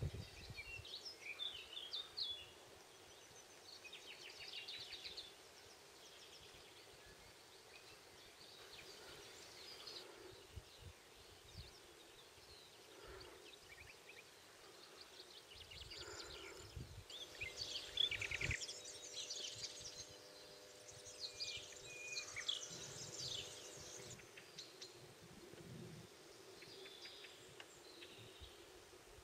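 Faint birdsong: several small birds chirping and trilling, with a busier stretch of song about halfway through.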